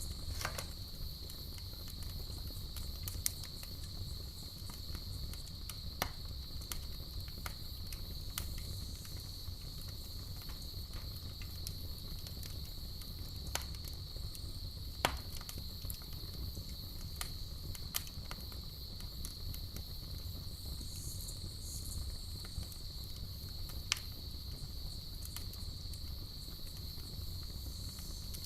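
Campfire burning with a low rumble and scattered sharp crackles and pops every few seconds, over a steady high-pitched cricket trill.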